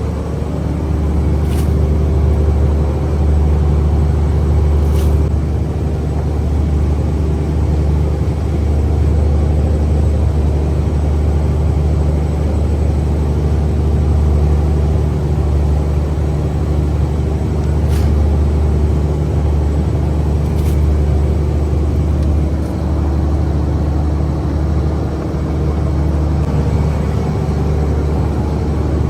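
Fishing boat's engine running steadily with a loud, low drone, with a few brief clicks over it.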